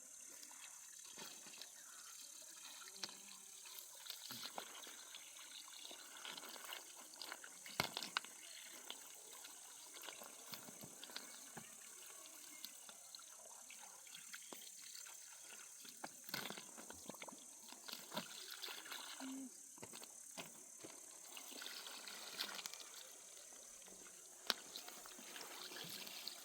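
Scattered light clicks, taps and rustles over a steady high-pitched insect chorus.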